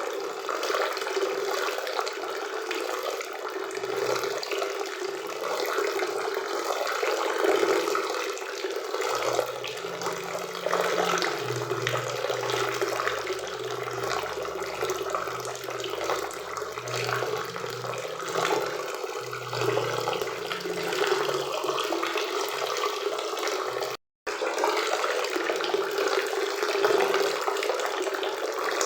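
Steady rushing and splashing of a forest river and waterfall. The sound cuts out for a split second about three-quarters of the way through.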